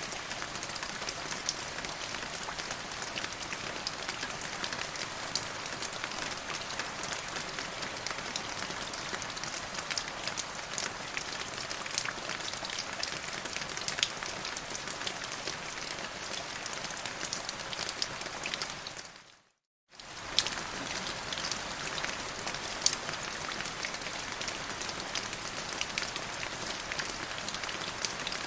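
Steady rain falling, an even hiss with sharp taps of single drops. About two-thirds of the way through it fades to silence for under a second and comes straight back, like a loop point in the recording.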